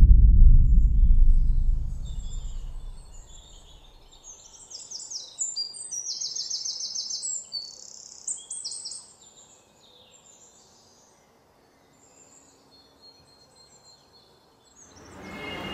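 A deep low boom dying away over the first couple of seconds, then small birds chirping and twittering in quick high calls from about four to nine seconds in.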